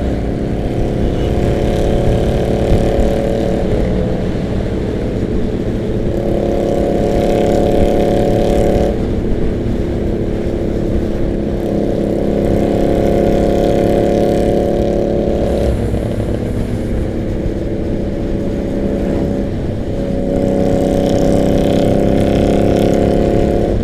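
Harley-Davidson V-twin motorcycle running at road speed ahead, heard from a following motorcycle with wind and road rumble underneath. Its exhaust note shifts several times as the throttle is opened and eased.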